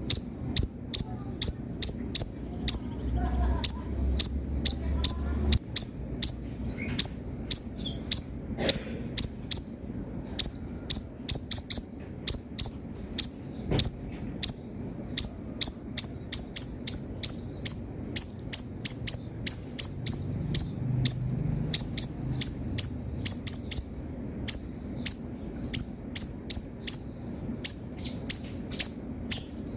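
Kolibri ninja (konin) sunbird singing energetically: rapid runs of very high, sharp chirps in quick clusters, repeated without pause.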